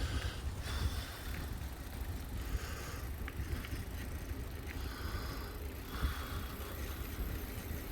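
Bicycle riding noise: a steady low rumble of wind on the microphone and tyres on the path, with a few small clicks and rattles from the bike.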